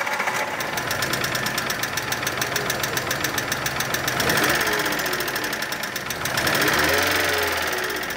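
Volkswagen Polo 1.6 petrol engine running with a fast, even ticking knock over the engine note.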